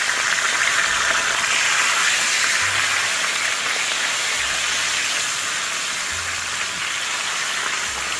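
Pork belly sizzling on a hot cast iron pot, a steady hiss of frying fat.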